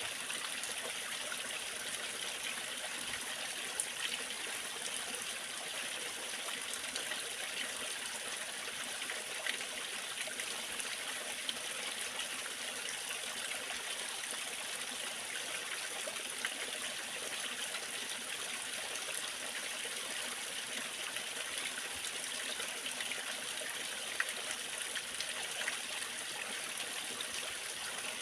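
Water of a waterfall falling and running steadily: an even, mostly high-pitched splashing hiss with a few small splashes standing out here and there.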